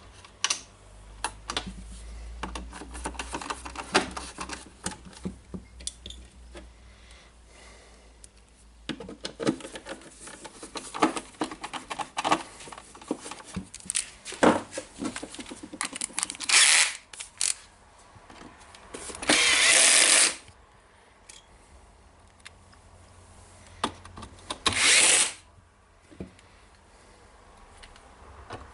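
Clicks and knocks of plastic housing parts being handled and fitted, then three short runs of a cordless drill-driver, the longest about a second, driving screws into the radio's case.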